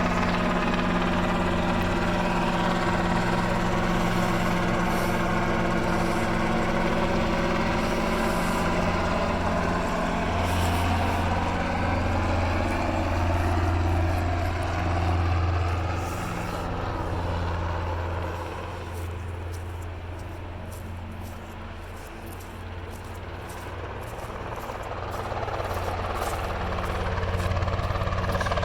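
Robinson R22 helicopter's piston engine and rotor running steadily, with a strong low drone and a stack of steady tones; the sound drops for several seconds past the middle and builds up again near the end.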